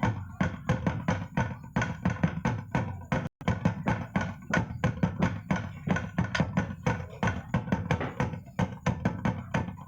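Music for a traditional dance from Nagekeo, led by drums and percussion beating in a fast, steady rhythm of several strikes a second. It breaks off for an instant about a third of the way in.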